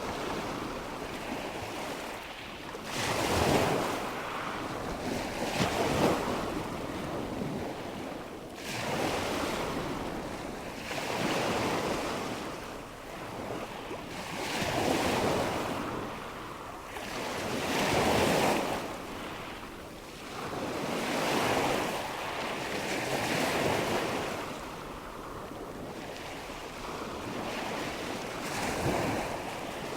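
Recorded nature ambience of washing water and wind, a steady rush that swells and falls back every two to four seconds, like waves coming in.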